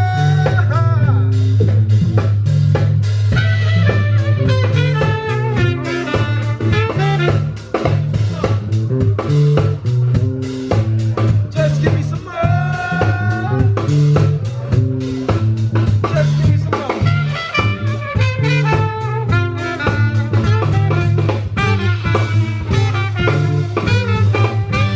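Live band music, jazz or swing in style: a drum kit over a strong, stepping bass line with melodic lines on top.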